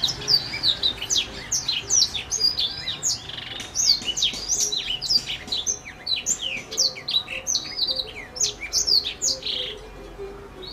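Small songbird singing a fast, unbroken stream of high chirps, trills and short whistles, the kind of recorded song used to train caged songbirds.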